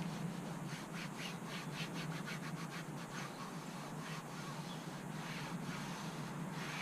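Quick rhythmic rubbing or scrubbing strokes, about three or four a second with short pauses, as detailing product is worked over engine-bay plastic, over a steady low hum.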